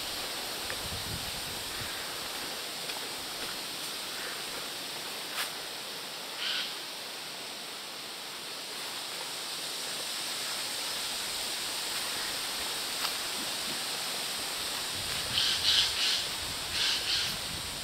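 Steady rushing outdoor background noise, with a small bird calling: a single short high chirp about six seconds in, then quick runs of high chirps near the end, the loudest sounds here.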